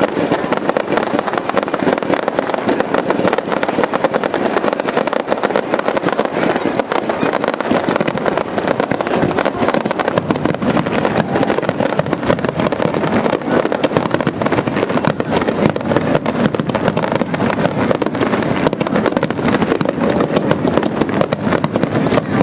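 Fireworks crackling and popping in a dense, unbroken stream of small reports.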